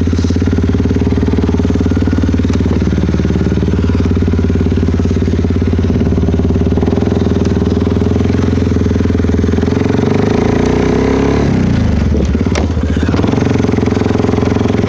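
2012 Suzuki KingQuad 400 ATV's single-cylinder four-stroke engine running loud and steady through an aftermarket HMF exhaust while riding. About eleven seconds in, the engine note drops as the throttle eases off, then steadies again.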